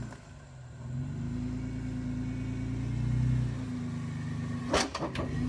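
Four-door Jeep's engine working steadily under throttle as it crawls up a rock obstacle, with a cluster of sharp knocks near the end.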